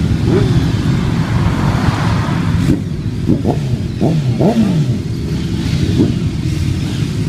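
Motorcycle engines running, with the throttle blipped several times in quick succession around the middle, each rev rising and falling in pitch.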